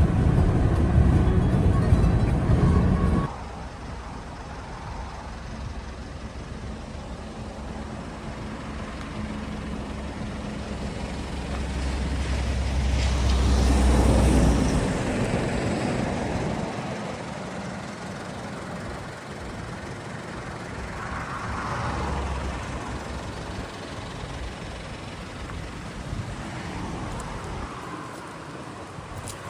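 Off-road vehicle driving on a rough track, engine and tyre noise. It is loud for the first three seconds and stops suddenly, then comes back quieter, swelling louder twice, about halfway through and again about three quarters of the way in.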